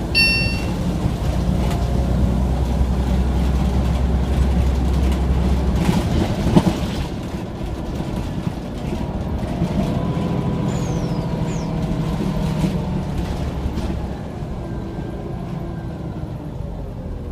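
Scania OmniCity single-deck bus running, a steady low engine drone that drops away about six seconds in. A short high beeping comes right at the start, and a single sharp knock comes about six and a half seconds in.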